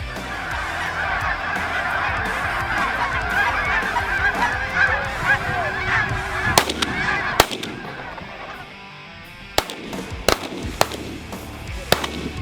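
A large flock of geese honking in a dense overlapping clamour for the first seven seconds or so. Then a string of about six shotgun shots from hunters firing on the birds in the second half.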